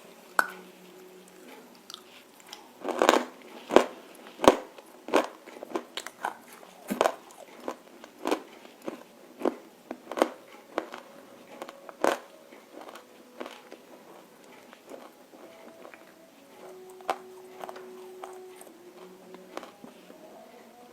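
Crunchy bites and chewing of roasted edible clay (nakumatt) up close: crisp crunches come every half second to a second through the first half, then thin out to occasional crunches.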